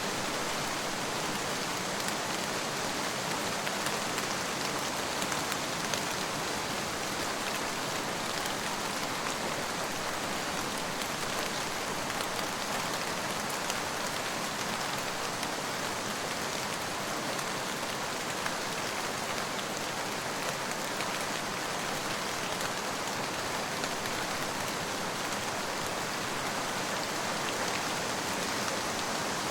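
Steady heavy rain falling, an even hiss with the patter of individual drops on a surface, unchanging throughout.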